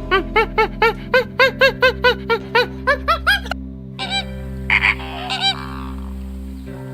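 A rapid series of short animal calls, each rising and falling in pitch, about four or five a second, stopping about three and a half seconds in. A few scattered, different calls follow near the middle, over a steady music bed.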